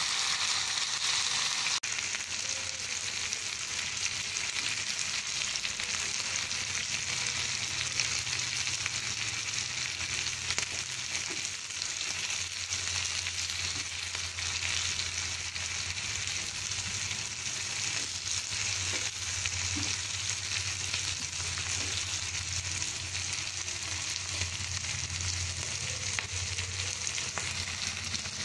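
Chopped cluster beans and onion sizzling steadily in hot oil in a nonstick frying pan, with occasional stirs of a wooden spatula and a low steady hum underneath.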